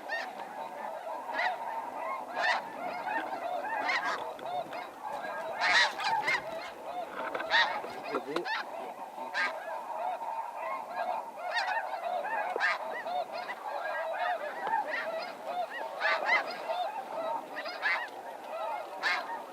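A flock of snow geese calling: a continuous chorus of many overlapping honks, with louder single calls standing out about once a second.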